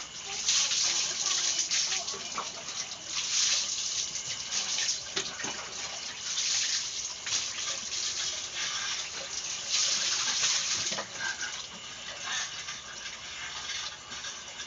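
Water poured over a dog to wet its coat for a bath, splashing in about four louder surges with a lower, steady running between them.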